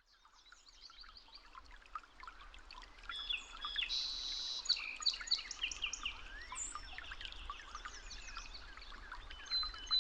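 A chorus of several birds chirping and whistling together, many short overlapping calls and quick trills. It fades in from silence and grows louder over the first few seconds.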